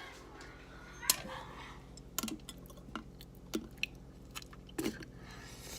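A person chewing a mouthful of food close to the microphone, with a few separate wet mouth clicks and smacks spread through it, over a faint steady low hum.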